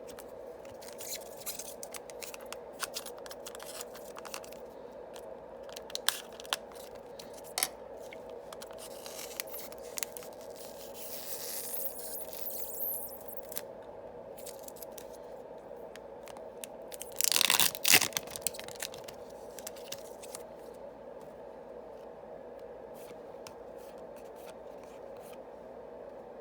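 Foil booster pack wrapper of Yu-Gi-Oh trading cards being torn open, with one short loud tear about two-thirds of the way through and softer crinkling a little before it. Light clicks and taps of the cards and wrapper being handled come throughout, over a steady low hum.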